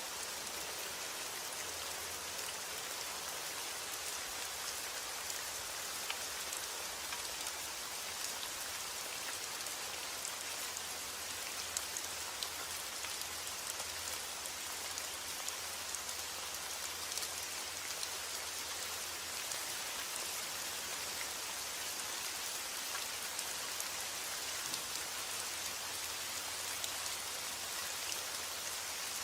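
Steady rain falling, a continuous hiss of many drops with scattered small individual drop ticks on a surface.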